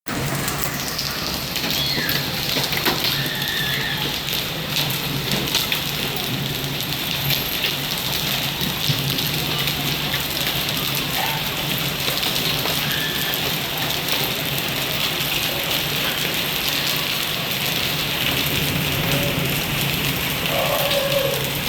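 Rain falling steadily, with many scattered sharp ticks of impacts on hard surfaces and a steady low hum underneath.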